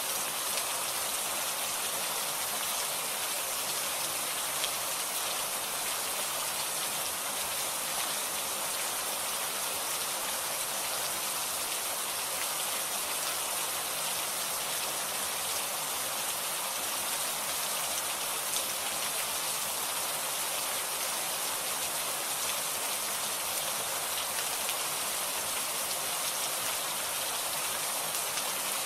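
Steady heavy rain falling, an even hiss with a few faint separate drop ticks.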